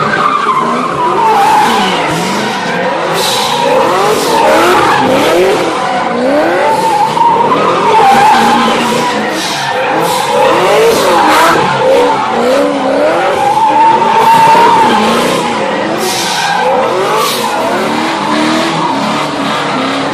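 Muscle car engines revving hard up and down while the tyres squeal and skid through a burnout or drift. Several overlapping engine notes rise and fall, with a squeal held near the same pitch.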